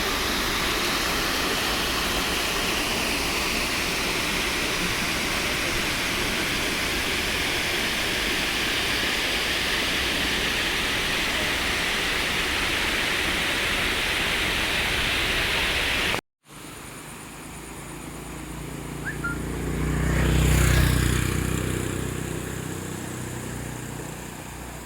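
Rain-swollen water rushing steadily over a check dam, a loud even noise that cuts off suddenly about two-thirds of the way through. Then, in quieter surroundings, a vehicle passes, its low rumble swelling to a peak and fading.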